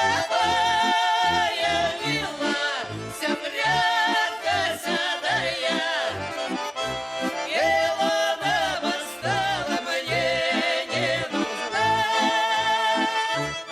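Accordion playing a folk melody in held chords over a steady, evenly pulsing bass accompaniment.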